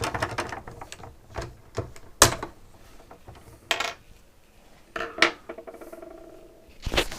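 Scattered clinks and knocks of small hard parts, a few ringing briefly like dropped or handled metal pieces, spaced a second or so apart.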